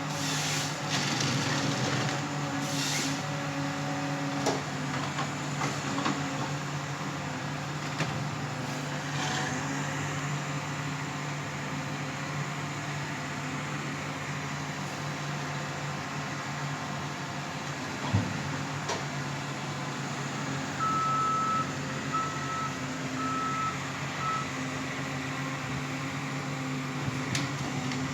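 Forestry harvester's diesel engine running steadily, with a few knocks from the machine working. About two-thirds of the way through, a reversing alarm beeps four times.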